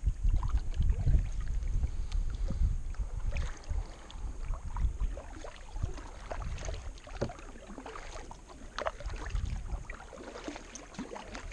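Kayak paddle dipping and splashing in river water in irregular strokes, with drips, over a low rumble that is loudest in the first few seconds.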